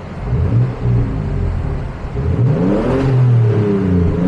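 Car engine being revved: a short blip, then a sharp rise in revs that falls back, and another rise near the end, with no exhaust pops.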